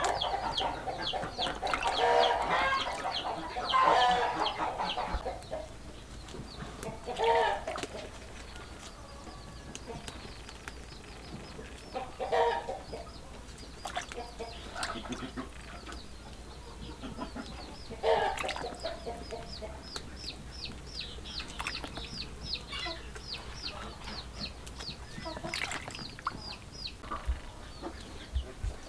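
Chickens clucking in several short bouts, with a long run of quick, high chirps through the middle.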